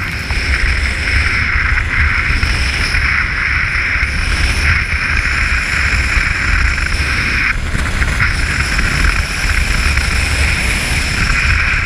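Jet boat running at speed: a steady rush of engine and water noise, with wind rumbling on the microphone.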